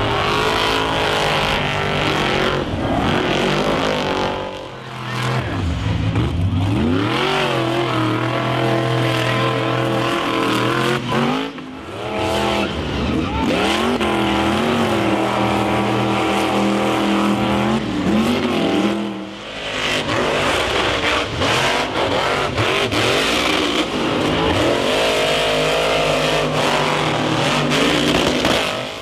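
Monster truck engines revving hard, the pitch repeatedly climbing and falling as the throttle is worked, with three brief drops in level.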